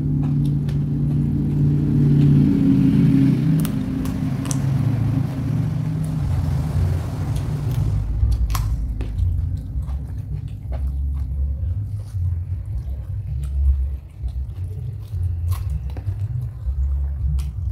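Close-miked chewing and crunching of raw vegetables, with sharp crunches scattered through. A heavy low rumble runs underneath, steadier in the first few seconds.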